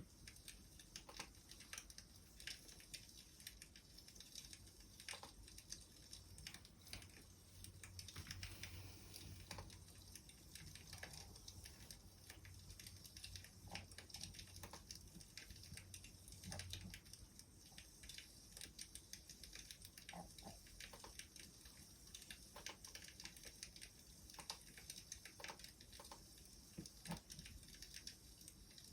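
Faint wood fire crackling: irregular small pops and snaps over a steady soft hiss.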